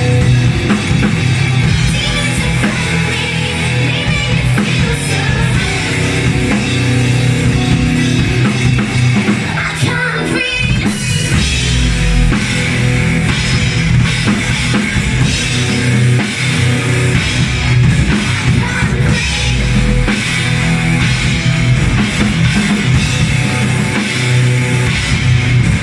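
Live rock band playing loudly, with a heavy drum kit driving the music.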